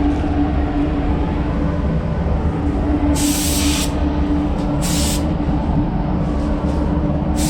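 Spray gun hissing in two short bursts, about three seconds in and again about a second later, as clear coat spraying starts. Under it a steady low machine rumble with a hum.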